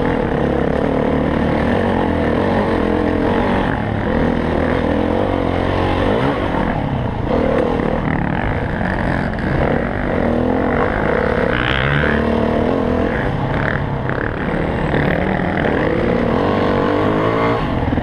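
Dirt bike engine running hard, revving up and down as it is ridden over rough trail, with occasional clatter from the bike.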